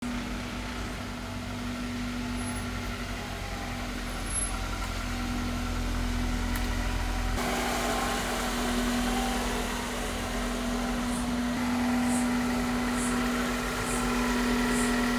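Honda Accord Euro R's H22 four-cylinder engine idling steadily with its intake resonator box removed, so the intake is louder. The low rumble lessens about halfway through.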